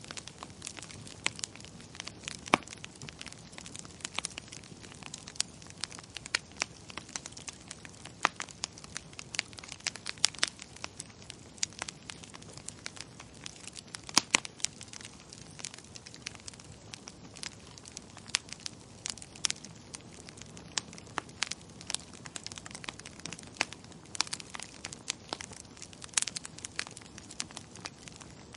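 Wood fire crackling in a fireplace: irregular sharp pops and snaps, several a second, over a steady low hiss of burning.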